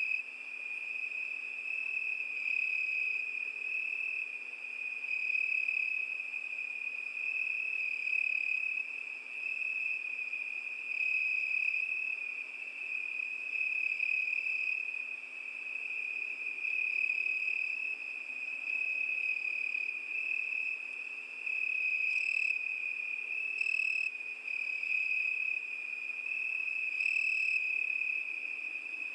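Cricket chirping in a continuous high-pitched trill that swells and fades every second or two, with a few faint ticks in the last third.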